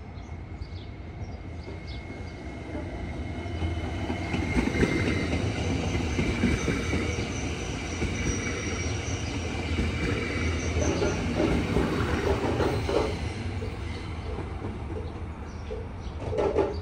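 Electric passenger train passing close by, its wheels rumbling over the rails with a faint high whining tone. The noise builds about three seconds in and eases off near the end.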